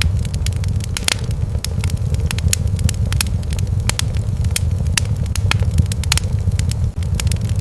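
Wood fire in a fireplace crackling and popping in quick, irregular snaps over a steady low rumble.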